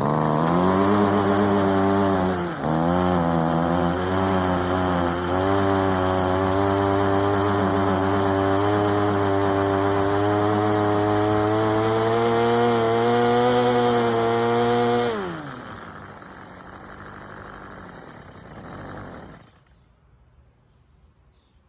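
Stihl FS 45 string trimmer's two-stroke engine running after a carburetor rebuild. It revs high with a brief stumble about two seconds in, then holds steady with its pitch creeping up. About fifteen seconds in it drops back to a quieter idle for a few seconds and then shuts off.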